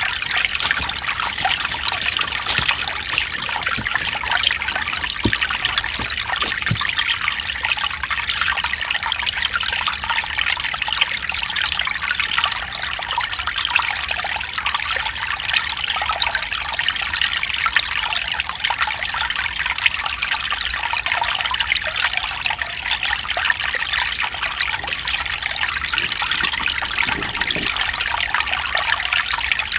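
Mountain stream trickling and splashing over rocks in a steady, unbroken rush of water.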